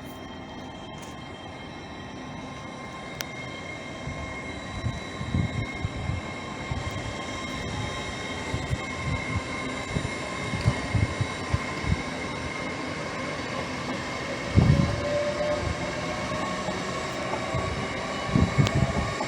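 A train running through a station, growing louder, with a steady high whine and irregular low thuds.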